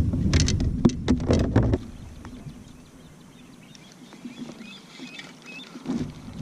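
Low wind rumble and a few knocks and rustles from handling on a fishing kayak. It then falls quieter for a few seconds, with a few faint high chirps, before the rumble comes back near the end.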